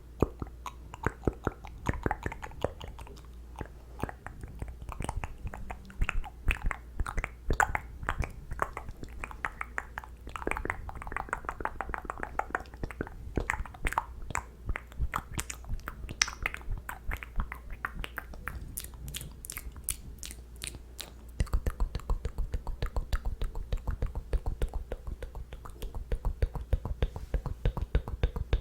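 ASMR mouth sounds close to the microphone: rapid wet clicks, smacks and pops of lips and tongue. About two thirds of the way in they turn into a quicker, more even run of clicks.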